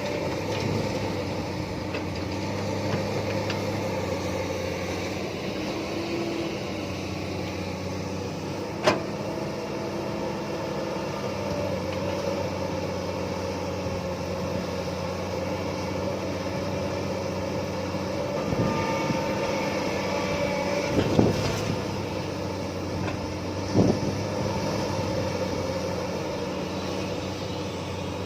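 Excavator diesel engine running steadily as it loads a dump truck, with a few sharp knocks along the way.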